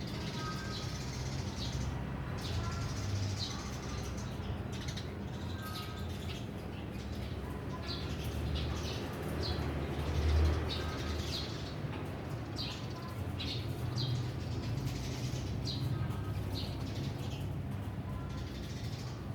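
Small birds chirping in many short, high calls scattered throughout, over a steady low rumble. A louder low thump about ten seconds in.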